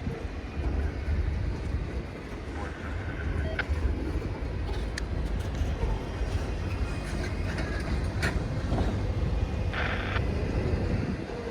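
Freight train rolling past with a steady low rumble, with occasional sharp clicks from the wheels over the rail joints. A short hissing or squealing patch comes about ten seconds in.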